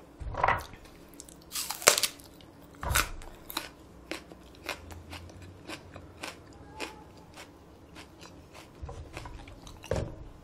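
Close-miked chewing of crunchy food, with a few loud crunches in the first three seconds followed by many softer, quicker crunches.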